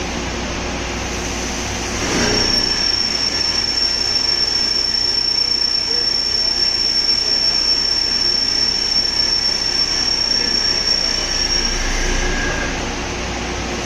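CNC vertical drilling machine at work: about two seconds in, a single high-pitched squeal sets in over the machine's steady running noise. It holds for about nine seconds, then fades out.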